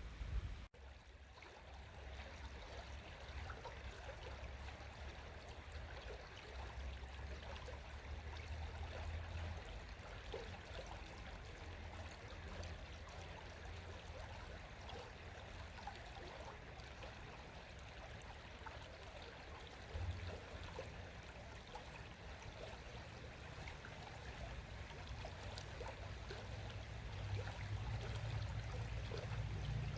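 Shallow river babbling steadily over its bed, with a low rumble that swells now and then, loudest near the end.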